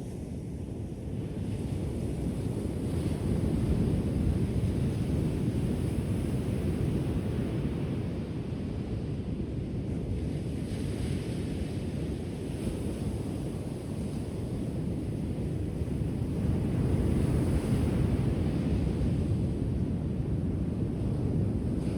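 Ocean surf washing onto the shore: a steady low rush of breaking waves that swells and eases slowly.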